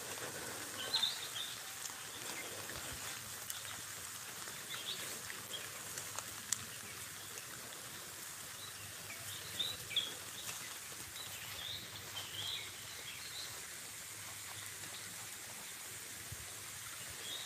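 Faint outdoor ambience: a steady low hiss with short bird chirps scattered through it, a few at a time.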